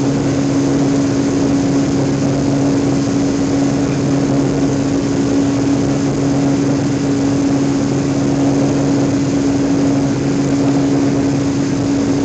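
Airliner cabin noise in the climb: the jet engines and airflow making a steady rushing drone with a constant low hum underneath.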